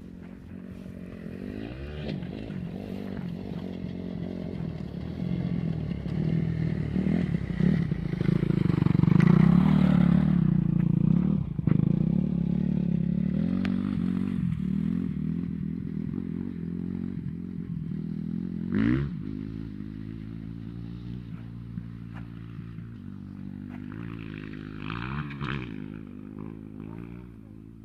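Motocross bike engines running and revving on the track, building to a loud peak as a bike passes close about ten seconds in, then easing off, with quick revs rising in pitch twice in the second half.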